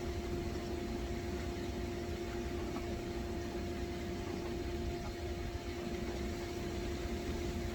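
Steady machine hum: a constant mid-pitched tone over a low rumble and hiss, unchanging throughout.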